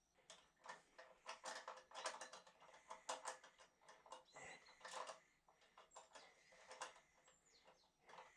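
Faint, irregular metallic clicks and taps, several a second, from tools and metal parts being handled while a part is fitted to a bracket.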